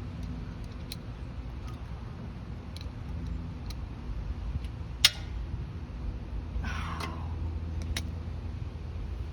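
Handling noises of tools and parts: scattered small clicks with one sharp click about five seconds in and a short scraping rustle a moment later, over a steady low rumble.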